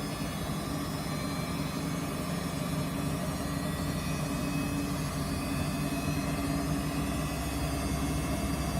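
Samsung washing machine running a 95°C Baby Care boil wash, its motor giving a steady hum with a low drone that grows slightly louder in the second half.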